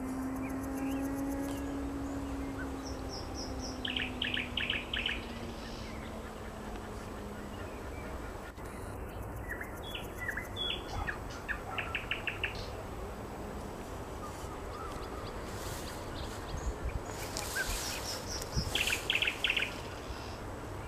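Nightingale singing in short separate phrases of rapid repeated notes, three phrases with pauses between them, over a steady outdoor background. A low steady hum slowly falls in pitch and fades out about a third of the way through.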